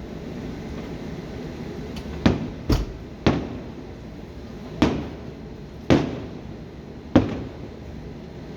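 Fireworks shells bursting: six or seven sharp booms from about two seconds in, each trailing off in an echo, over a steady low background hum.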